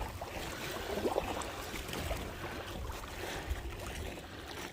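Wind buffeting the phone's microphone in a low, uneven rumble, with water lapping and slapping against a kayak hull on choppy water.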